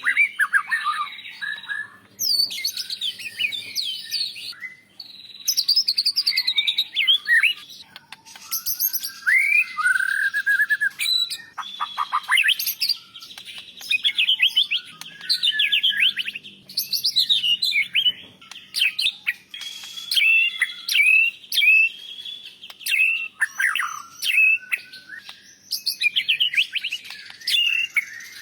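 White-rumped shama (murai batu) singing continuously: a fast, varied run of clear whistles, chirps and rapid trills, delivered in phrases of a second or two with brief pauses between them.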